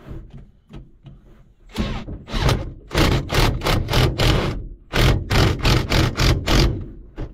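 Hand-held power driver tightening a hose clamp on a drain-tile fitting, run in a quick series of short bursts, about four a second, until the clamp is snug.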